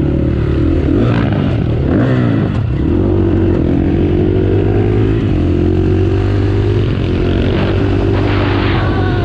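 Supermoto motorcycle engine running hard and loud, its pitch rising and falling as the throttle is worked: it drops and climbs again about a second or two in, and climbs once more near the end.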